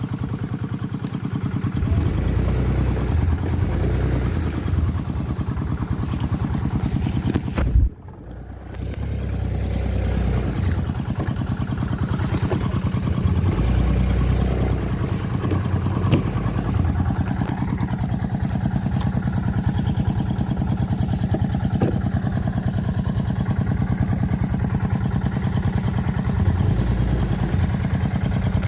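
Quick G1000 two-wheel hand tractor's engine running steadily under load while clearing brush, with knocks and clatter, and a brief break about eight seconds in.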